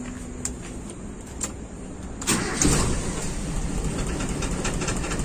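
Carbureted Toyota Kijang engine started with the key about two seconds in, then running. It is misfiring on cylinder one, a dead cylinder that a spark-plug swap has not cured and that is traced to a cracked vacuum hose at the intake manifold.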